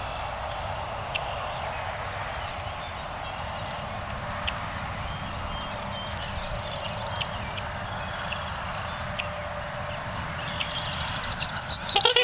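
Steady outdoor background rush with faint scattered bird chirps; near the end a bird gives a loud, rapid string of high notes, about ten a second.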